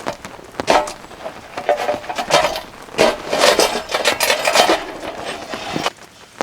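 Objects being handled, with scraping and clattering in several bursts; the longest and loudest comes in the middle.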